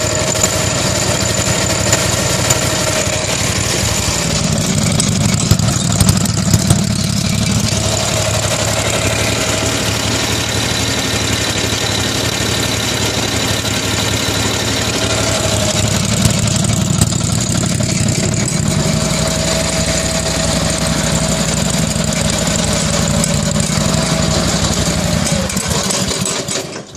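Gravely 8242 tractor running with a steady mechanical noise from its clutch, the low engine note changing a couple of times before it cuts off near the end. The owner suspects a failing clutch bearing, because the same noise remains after the clutch on the other side was replaced.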